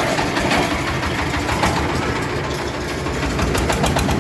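Farm tractor engine running at a steady idle with a knocking rattle and a cluster of sharp ticks near the end; the men say air is getting into the engine and it won't pick up RPM.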